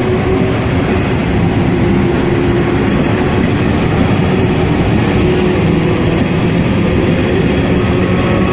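Taiwan Railway train running past, a steady loud sound of the train with a faint steady tone through it.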